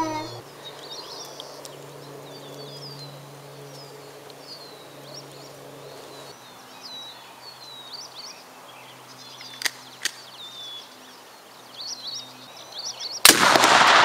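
Birds chirping over a low steady hum, with two faint sharp clicks about ten seconds in. Near the end comes a sudden loud blast: a Goliath Tannerite exploding target set off by a .22 rimfire shot.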